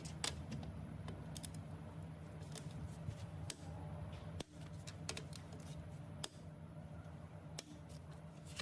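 Scattered light metal clicks and ticks from hand tools working the connecting rod bolts, over a steady low hum.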